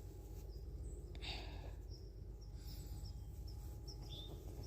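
Outdoor ambience in woodland: a steady low rumble with short, high bird chirps scattered throughout, and a brief rustle just over a second in.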